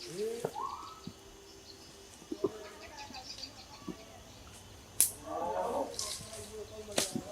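Animal calls, a rising call about a second in and another group of calls about five seconds in, with a few sharp clicks, the loudest just before the second group.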